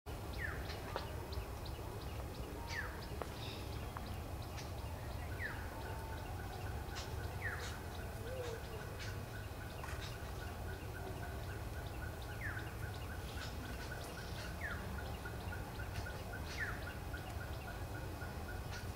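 Wild birds calling in woodland. One gives a short falling whistle every two to three seconds, and from about five seconds in another keeps up a fast, even run of short notes at one pitch, with scattered short high chirps over a low steady rumble.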